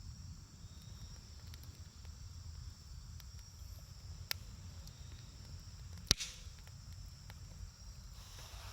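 Wood campfire burning with sparse crackles: a sharp pop about four seconds in and a louder one about six seconds in, over a low steady rumble.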